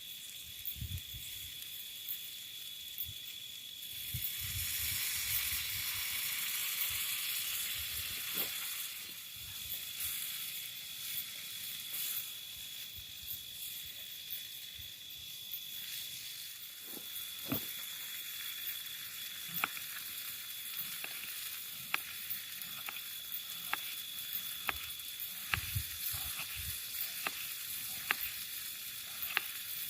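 Food sizzling in a frying pan, with a louder burst of sizzling about four seconds in that settles after a few seconds, and frequent small pops and crackles of spitting oil.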